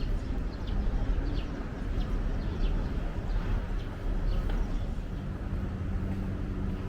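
City street ambience: a steady rumble of road traffic with scattered short high chirps, and a low engine hum that sets in near the end.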